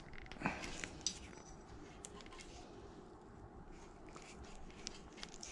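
Faint small clicks and handling noises from hand work on the Predator 212 engine's ignition coil as the stock spark plug wire is unscrewed from it.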